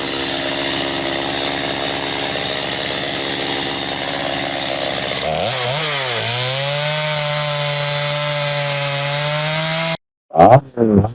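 Chainsaw engine running steadily. About halfway through its pitch dips and wavers, then holds at a lower speed. Near the end it cuts off abruptly and a brief snippet of a voice follows.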